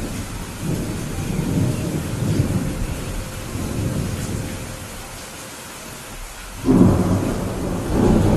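Rainstorm with thunder: a steady hiss of rain under a low rolling rumble for the first few seconds. The rumble fades, then a sudden, louder thunderclap breaks about two-thirds of the way in.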